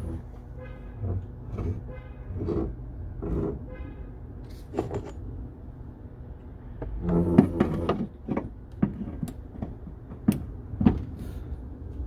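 Intermittent clicks, clunks and short metallic knocks of hand-tool work on a car body, louder in a cluster about seven seconds in, over a steady low hum.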